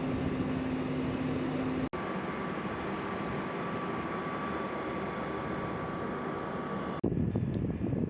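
Steady running-machinery noise with a constant hum, like an engine running. It cuts off abruptly about two seconds in to a similar steady noise with a higher hum, then cuts again near the end to rougher, gusty noise.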